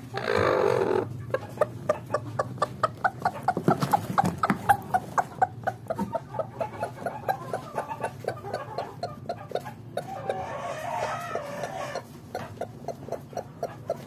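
Hen clucking in a steady, quick series, about four clucks a second, opening with a harsh squawk in the first second.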